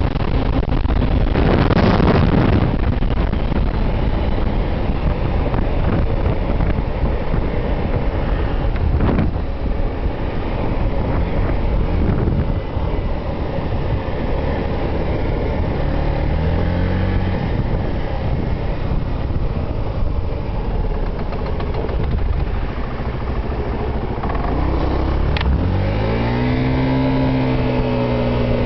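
Wind rushing over the microphone as a Gilera Runner VX 125 scooter is ridden at speed, its engine barely showing through. The engine note rises briefly around the middle. Near the end it climbs again and then holds at a steady pitch.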